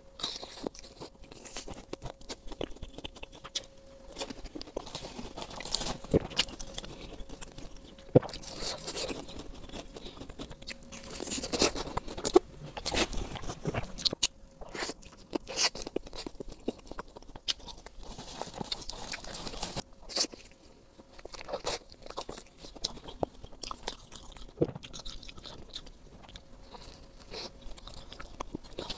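Close-miked eating of sauce-coated fried skewered food: repeated bites and chewing, with irregular sharp clicks and wet mouth sounds.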